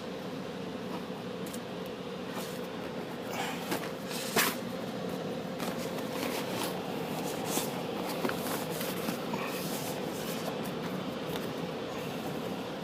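Scattered light clicks and rustles of handling, with one sharper knock about four and a half seconds in, over a steady mechanical hum.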